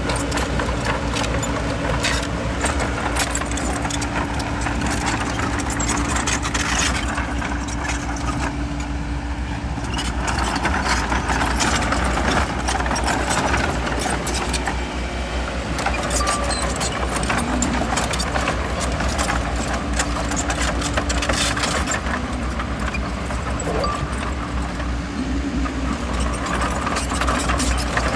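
Bulldozer's diesel engine running steadily under load, with a constant low drone and dense, irregular clanking and knocking from its steel tracks and the stone it pushes.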